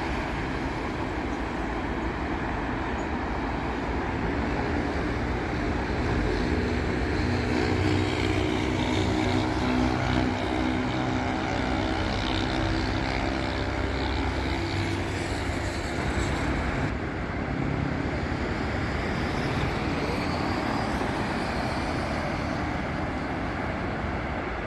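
Steady road traffic on a busy city avenue, cars and buses passing continuously. Between about six and fourteen seconds in, a heavy vehicle's engine drones past, growing louder and then fading.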